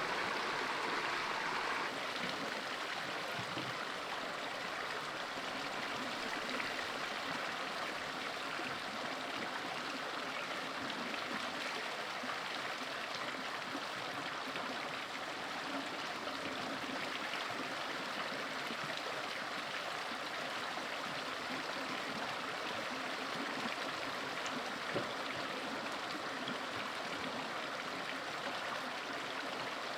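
Running water, a steady even rush like a stream or water flowing over rocks.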